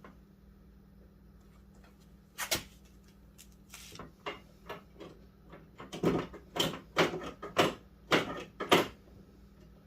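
Repeated sharp clacks of a Ford Fox-body Mustang's door handle and latch linkage being worked by hand, a few scattered at first and then about two a second in the second half. The handle rod has just been zip-tied to take up its play, and the handle is being tried out.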